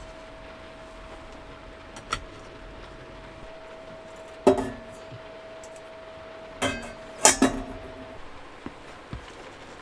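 Tableware and kitchen items handled during meal preparation: a few sharp clinks and knocks that ring briefly, the loudest about halfway through and a cluster a couple of seconds later, over the steady hiss of heavy rain on the van. A faint steady hum stops near the end.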